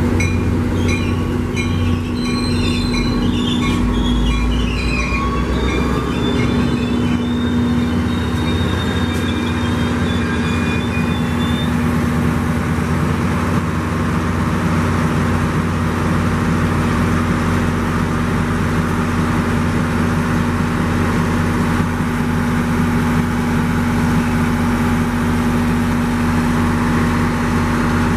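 Diesel-hauled passenger train pulling in, with thin high-pitched wheel squeal for about the first twelve seconds. After that only the locomotive's diesel engine is left, a steady close-up drone.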